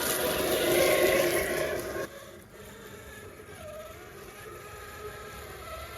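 Electric motor and drivetrain whine of a 1/6-scale RC rock crawler under throttle. It builds for about two seconds, then drops abruptly to a quieter whine as the throttle is eased off.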